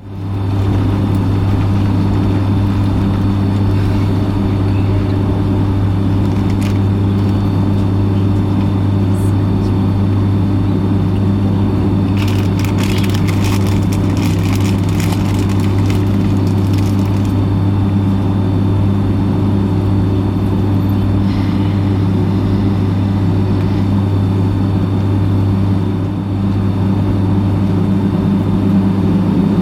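Boeing 757-200's engines running, a steady low drone heard inside the passenger cabin, with some faint clicking about 12 to 17 seconds in.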